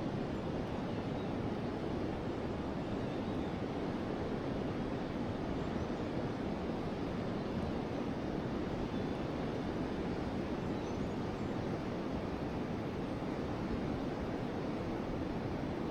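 A river flowing: a steady rushing of water with no breaks.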